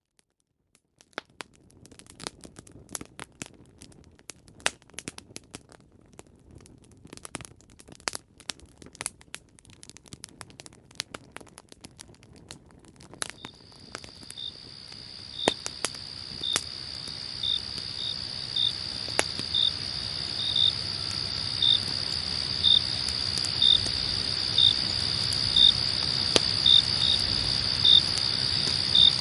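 Campfire crackling and popping. About halfway through, crickets fade in and grow steadily louder: a continuous high trill with a regular chirp about once a second.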